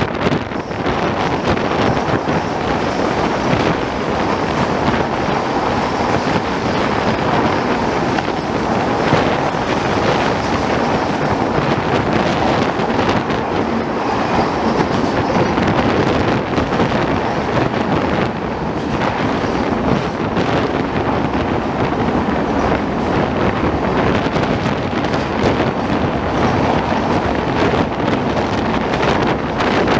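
Swaraj Express passenger train running along the track, heard from on board: a steady, loud rolling noise of the coaches.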